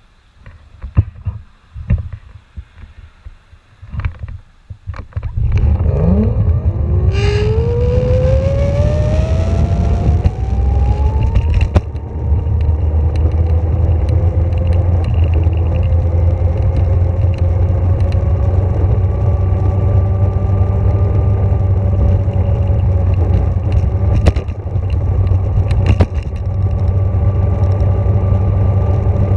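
Electric vehicle motor pulling away from a stop: a few light knocks, then a whine that rises steadily in pitch as it speeds up over about six seconds and settles to a steady tone at cruising speed, over a loud low rumble.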